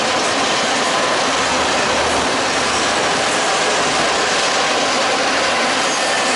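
Norfolk Southern intermodal freight train of trailer-on-flatcar cars rolling past, with a loud, steady noise of wheels running on the rails.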